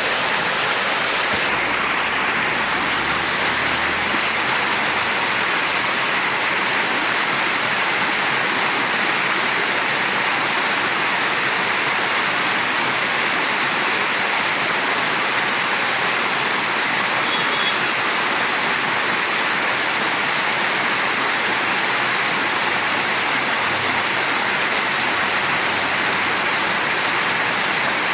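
Mountain stream rushing over rocks, a dense, steady rush of water.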